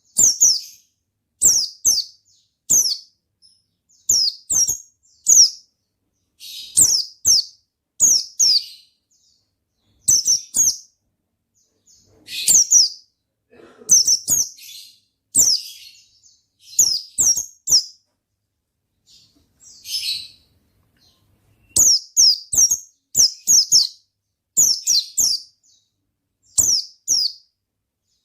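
White-eye (pleci) singing in quick bursts of high, downward-sliding chirps, two to four notes at a time, repeated about every second with short pauses between phrases.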